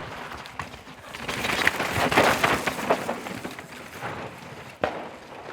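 Mountain bike passing over rocky, dusty ground: tyres crunching on rocks and the bike rattling. The sound swells to a peak about two seconds in and then fades, with one sharp knock near the end.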